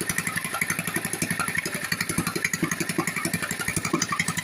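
Yamaha gasoline engine idling steadily, with an even, rapid putter of about eight firing beats a second; it runs after its repair and cleaning.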